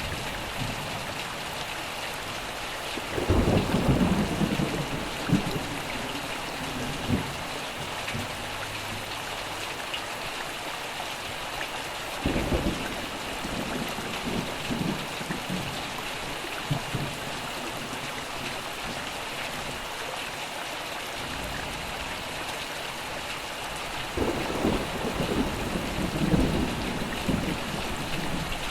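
Steady heavy rain hissing, with three rolls of thunder rumbling low, each swelling suddenly and fading over several seconds; the first roll is the loudest.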